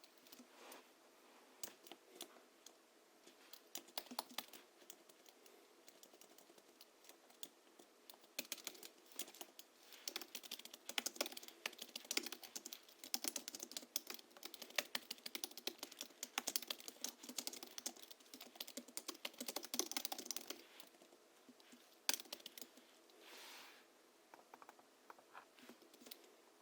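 Hansung GHL-5X keyboard being typed on: scattered keystrokes at first, then about twelve seconds of fast, continuous typing, slowing again to a few separate presses. Its springs are lubricated with Krytox 103 and 107 and fitted with 50 g rubber domes, tuned for a deep, clacky keystroke. A brief soft swish comes near the end.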